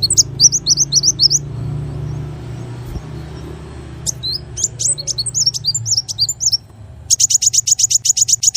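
Small songbird singing: two bursts of quick, high chirping notes that slide up and down, then a rapid even trill of about eight notes a second near the end. A steady low hum runs underneath.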